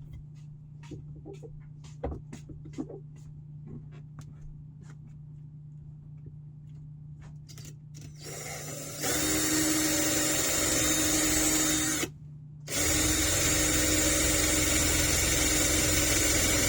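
A few light handling clicks, then a Ryobi power drill running with a steady whine as it bores into tough aluminum. It runs for about three seconds, stops briefly, and runs again for about four seconds.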